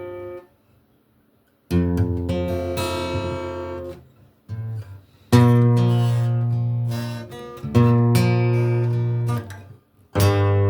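Acoustic guitar strumming chords in an instrumental passage with no singing. The chords are spaced apart and each rings out and fades, after a short silence near the start.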